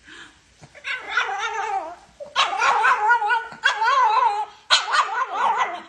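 A dog making a series of about four drawn-out, wavering howling "talking" calls, each about a second long, that rise and fall in pitch.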